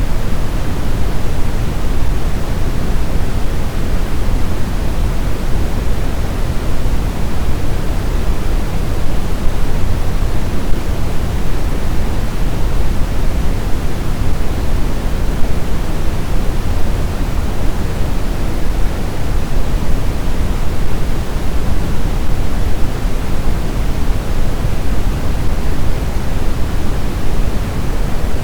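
Steady blizzard wind noise: a loud, even rush, heaviest in the low rumble with a thinner hiss above. There are no distinct gusts, whistles or howls.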